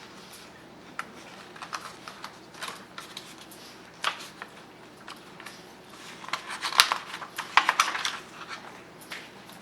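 Scattered light clicks and taps of small objects being handled, growing busier in the second half.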